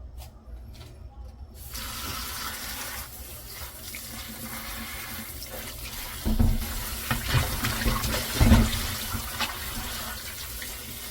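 Kitchen tap running steadily into a sink, turned on about a second and a half in. A few dull knocks and splashes come from something being handled under the stream, the loudest about eight and a half seconds in.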